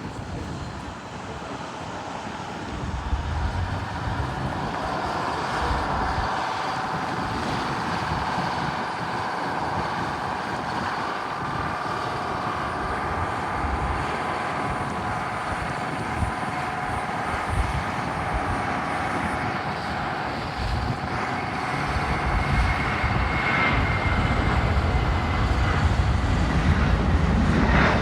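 Jet airliner engines: a steady whine of several tones over a rushing noise, with a low rumble that grows louder over the last several seconds.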